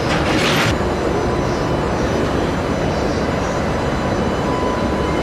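Steady rumble of a freight train hauled by an EH500 electric locomotive, with faint steady whining tones from the locomotive's electrical equipment above it. A short burst of hiss comes in the first second.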